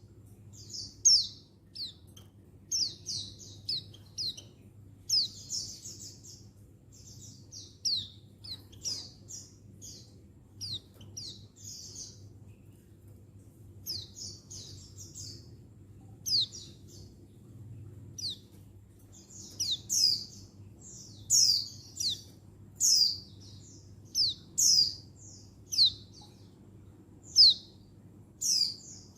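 Female white-eye calling: short, high, downward-sliding chirps, repeated irregularly, sometimes in quick clusters, and coming more spaced and louder in the second half. These are a female's calls to a male.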